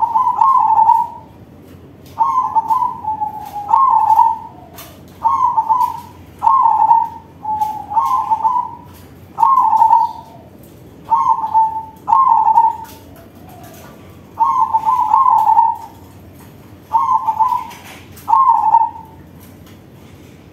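Crossbred zebra dove (perkutut crossing) singing its full, big-voiced cooing song, a run of short rolling coo phrases repeated every second or two.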